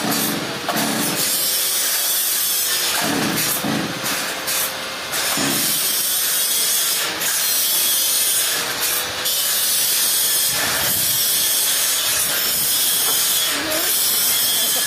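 Sawmill saw cutting through a trembesi log: a steady, loud hiss of the blade in the wood, with a faint steady tone underneath.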